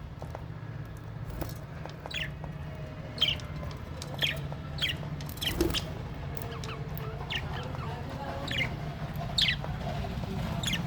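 Small aviary parrots, lovebirds and budgies, giving short, sharp chirping calls that fall in pitch, about one every half second to a second, over a steady low hum.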